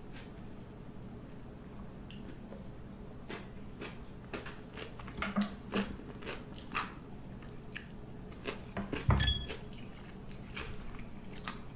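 Close-up chewing of crunchy homemade pickled vegetables, with small crunches scattered throughout. About nine seconds in there is a single loud, short ringing clink.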